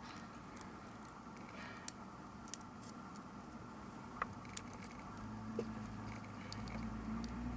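Scattered light clicks and taps of small parts and tools being handled during a compact digital camera repair. A low steady hum builds from about five seconds in.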